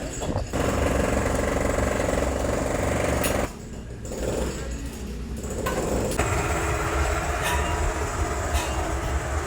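Workshop machinery running, with a fast, even rattle for the first few seconds that cuts off sharply about three and a half seconds in, followed by steadier machine noise with occasional clicks.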